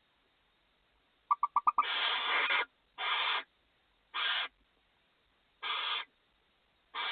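Barn owls in the nest box hissing. A quick run of five short chittering pulses leads into a long hiss, followed by four shorter hisses about every second and a half.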